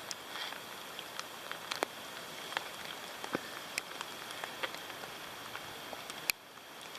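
Rain falling steadily, with many scattered drop ticks over a soft hiss, and one sharp click about six seconds in.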